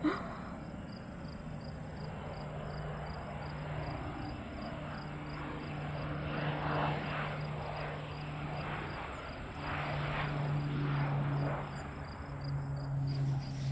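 Insects chirping outdoors in a steady pulse of about three chirps a second, over a low steady engine drone that fades in and out, with some rustling.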